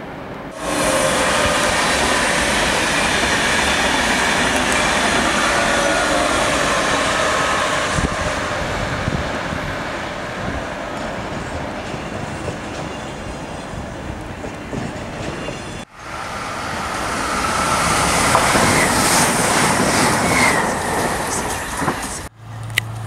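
High-speed trains passing on a main line: a loud, steady rush of wheels on rail with faint wavering squeal tones. The sound breaks off abruptly about 16 seconds in and again near the end, where a low steady drone begins.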